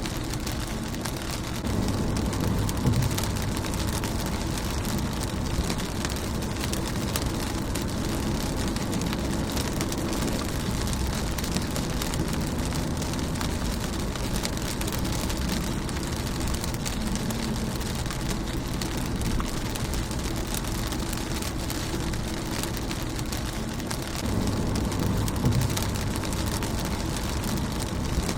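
Rain falling on a car's windshield, a steady hiss dotted with many small drop taps. A low rumble swells about two seconds in and again near the end.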